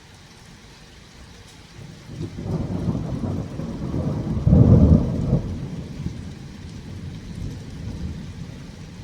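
Thunder rumbling over steady rain: the rumble builds about two seconds in, is loudest just past the middle, then slowly dies away.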